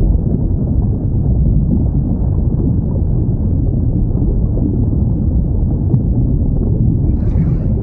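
Steady low underwater rumble from an ocean recording, with no clear whale call; a brief faint higher hiss comes near the end.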